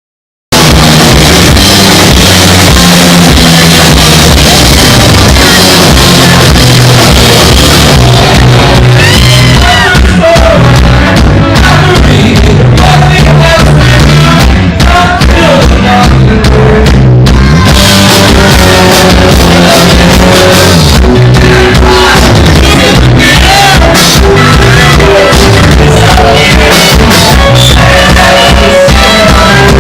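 Rock band playing live, with drums and shouted singing, recorded very loud; the music starts abruptly about half a second in.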